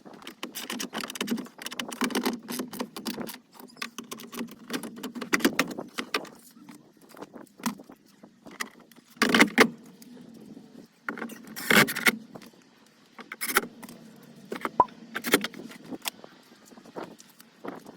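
Irregular clicks, knocks and rattles of parts being handled and fitted on the truck's cabin air-conditioner filter housing, over a steady low hum; the loudest knocks come about nine and twelve seconds in.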